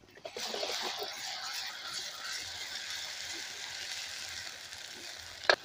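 Onions and ground masala paste sizzling in hot oil in a brass kadhai, stirred with a steel ladle that scrapes against the pan; the sizzle starts just after the start. A sharp clink of the ladle near the end.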